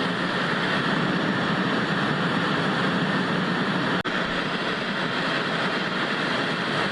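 Steady hiss of TV static, an even rushing noise with no pitch or rhythm, broken by a split-second dropout about four seconds in.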